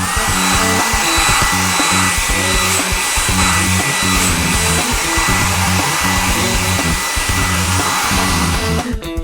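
Car-wash machine sound effect: a motor starts with a quick rising whine that settles into a steady high whine over a loud rushing hiss of air or spray, cutting off near the end, over background music.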